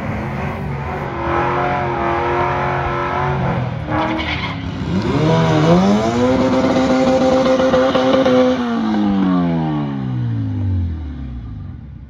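Drag car engine revving hard, then from about five seconds in climbing to high revs and held there for a few seconds during a burnout, with tyre squeal. Near the end the revs fall away in a long steady glide as the throttle is released.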